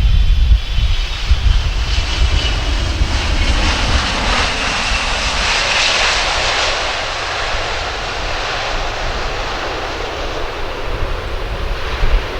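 Jet airliner passing close by as it lands: a loud engine roar with a high whine that swells to its loudest about halfway, then eases off.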